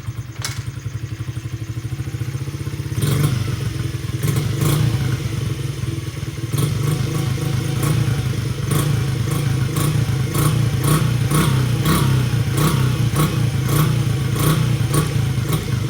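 Honda CRF50 dirt bike's small four-stroke single-cylinder engine catching on a cold start and running, getting louder about three seconds in. A regular clicking rattle comes in over the running engine in the second half.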